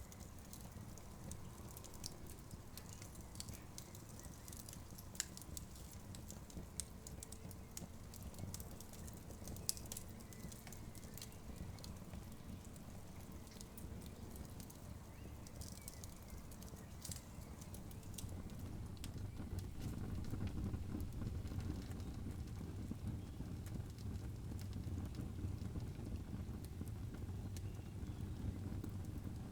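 Campfire crackling, with scattered sharp pops over a low, steady rumble that grows louder a little past halfway.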